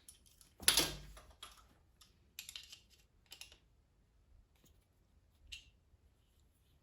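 Metal hand tools and small parts being handled on an engine block: one louder clank about a second in, then a scatter of light clicks and taps.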